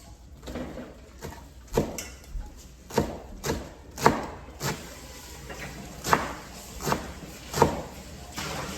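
A series of sharp knocks at irregular spacing, roughly one or two a second, starting about a second and a half in.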